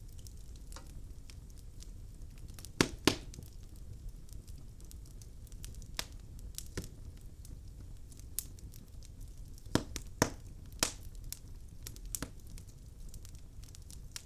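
Wood fire burning in a fireplace: a low steady rumble under irregular crackles and pops of the logs, with a sharp pair of pops about three seconds in and a cluster of louder pops near ten seconds.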